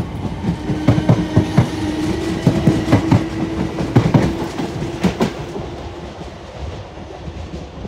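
Electric multiple-unit train passing, its wheels clacking over rail joints in quick irregular groups over a steady low hum, then fading away over the last couple of seconds.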